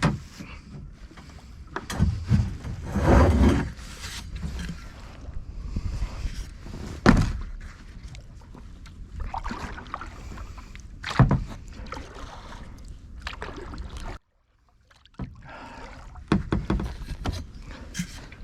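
Kayak paddling: paddle strokes in the water with irregular sharp knocks, over a low rumble. The sound drops out briefly about two-thirds of the way through.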